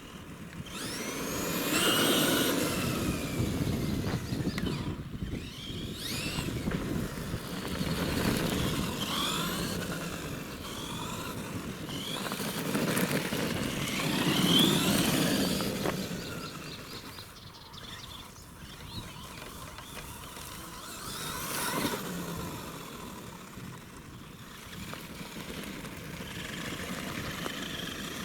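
Axial SMT10 radio-controlled monster truck's electric motor and drivetrain whining, rising and falling in pitch in repeated surges as the throttle is worked.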